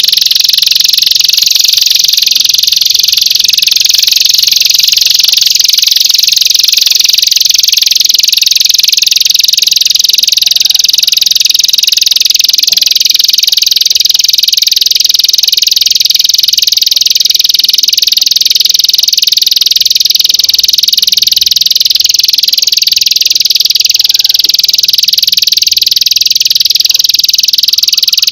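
A singing insect's loud, continuous high-pitched buzzing trill, unbroken and steady throughout, played as a masteran tutor recording for songbirds.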